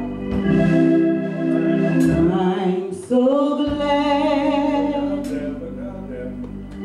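Gospel choir singing long held notes with vibrato, over organ accompaniment.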